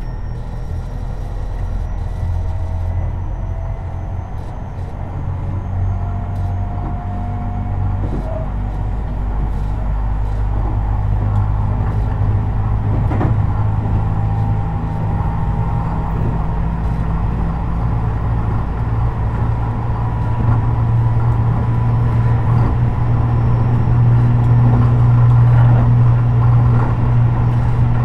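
Tobu 50090 series electric train running, heard inside the car near the floor: a steady low hum and rumble with a thin motor whine slowly rising in pitch. The sound grows gradually louder as the train gathers speed.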